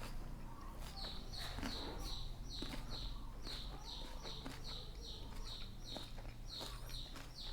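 A bird calling in a quick series of short, high chirps that slide downward, about three a second, over a steady low hum.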